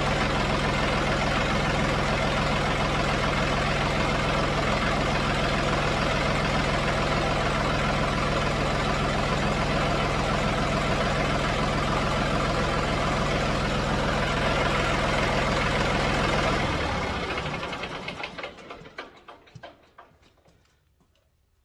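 John Deere 5055D tractor's three-cylinder diesel engine idling steadily, then switched off about sixteen seconds in and running down to a stop over a few seconds.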